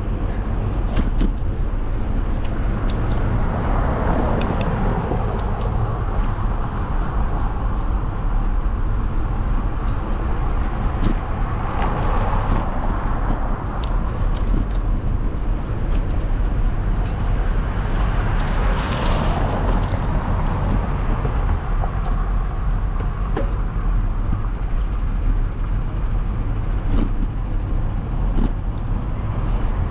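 Steady rumble of road and wind noise on a microphone riding along on a bike. Vehicles swell past three times: about four seconds in, near the middle, and about two-thirds of the way through.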